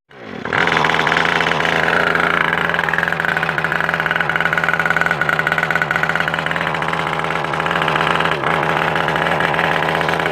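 Small motorbike engine running loud and steady at one pitch, coming in sharply at the start and easing slightly near the end.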